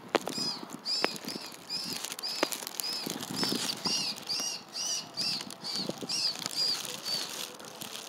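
A bird calling over and over, a short high note about twice a second, stopping about seven seconds in, with a few light clicks between the calls.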